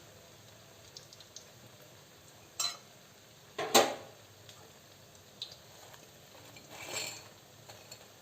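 Cooking utensils knocking and clinking against pans and dishes: a few light clicks, a knock, then one louder clatter about four seconds in, and a short scraping swell near the end.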